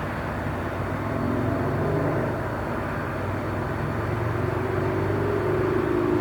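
Train station ambience: a steady low rumble and hum from a train or rail machinery, with a faint higher tone wavering above it. It gets a little louder about a second in.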